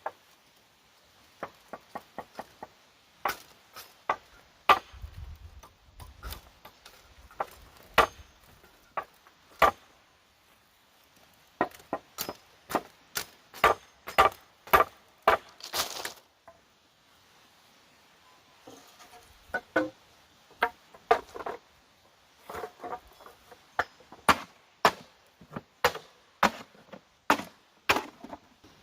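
Repeated chopping strikes of a blade into wood, sharp separate blows at an uneven pace of one to three a second, with a short pause past the middle.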